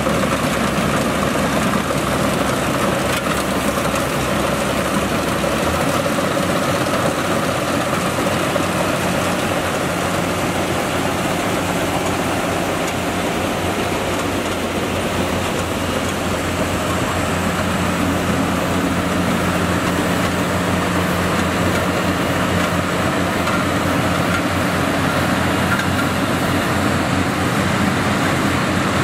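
Yanmar YH700 rice combine harvester running steadily, its engine note dropping slightly about six seconds in.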